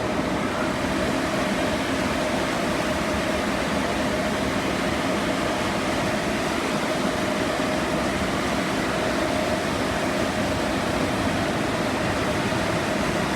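Automatic car wash equipment running, heard from inside the car: a steady rushing noise with a constant hum.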